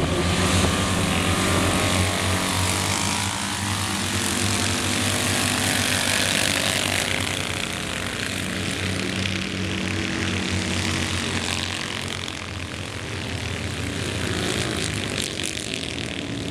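Several Citroën 2CV race cars' air-cooled flat-twin engines running hard as they race, one continuous engine drone whose pitch wavers as the cars accelerate and lift.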